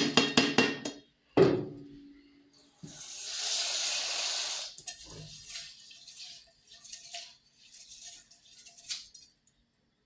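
Kitchen dishes and pots clattering, with one knock that rings on for about a second. Then a tap runs for about two seconds, followed by scattered light clinks.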